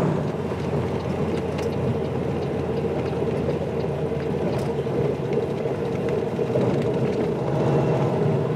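Steady drone of a semi truck's diesel engine and road noise, heard from inside the cab while driving.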